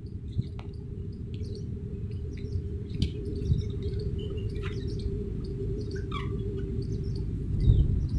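Birds chirping in short, scattered calls over a steady low rumble, with a low bump near the end.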